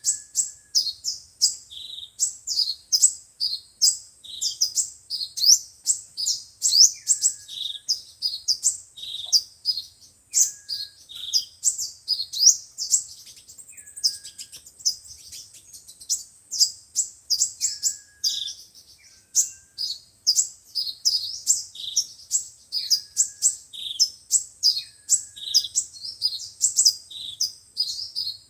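Sunbirds singing: a dense run of high, thin chirps and quick trills, several a second, with a short lower whistle that drops in pitch every couple of seconds.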